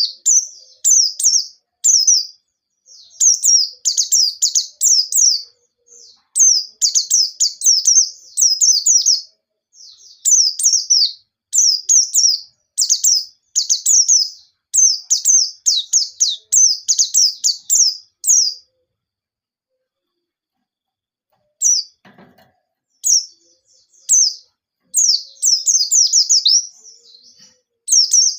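A white-eye (pleci) singing vigorously in fast, high twittering phrases. The song breaks off for about three seconds past the middle, then starts again.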